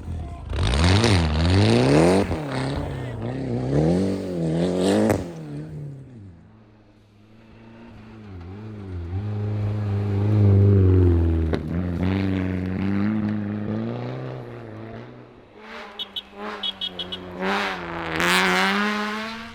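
Rally car engines at high revs: one revs hard up and down through the gears for about five seconds, then a car is heard approaching, passes loudly about ten seconds in and fades away. Near the end there is a quick run of sharp pops, followed by another hard rise in revs.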